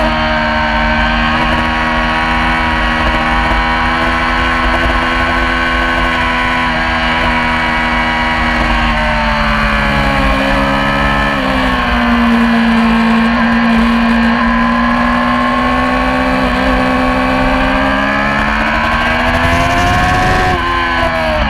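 Yamaha R6 inline-four engine running hard at high revs under racing load. Its pitch sags and then jumps back up about eleven seconds in, and drops sharply near the end as the revs come off.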